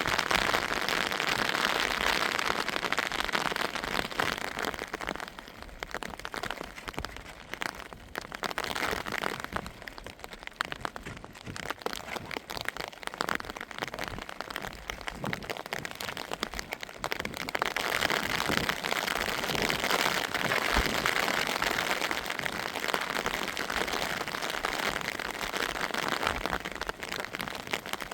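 Rain falling steadily as a dense, crackling patter of drops. It is heavier in the first few seconds, eases off for a while, and picks up again for the last ten seconds or so.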